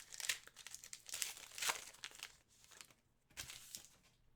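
Hockey trading cards and their plastic packaging being handled: irregular crinkling and rustling, with a louder rustle about three and a half seconds in.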